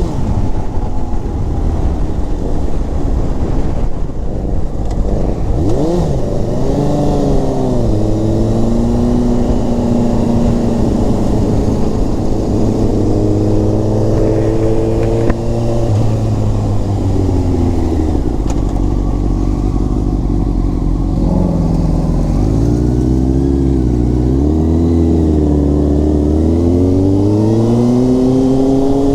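Inline-four sportbike engine under way, its pitch climbing as it revs, dropping sharply a few times and climbing again, heard over low wind rumble.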